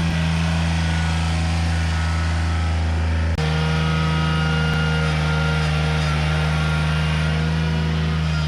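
John Deere 955 compact tractor's three-cylinder diesel engine running steadily while the tractor works, with an abrupt short break about three and a half seconds in.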